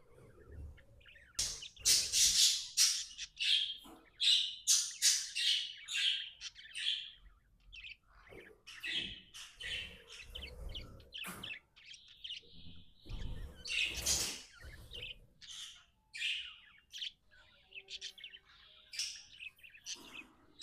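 Budgies chirping and warbling in quick, continuous chatter, busiest in the first several seconds and again midway.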